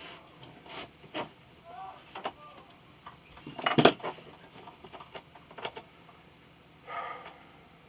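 Tools and a small metal workpiece being handled on a workbench: scattered clicks and knocks, the loudest a short clatter about four seconds in.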